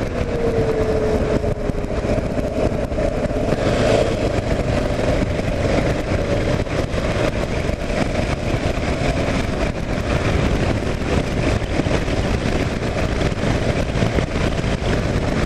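Kawasaki KLR 650 single-cylinder engine running under way, mixed with steady wind and road noise. Its note sags over the first couple of seconds and climbs again about four seconds in.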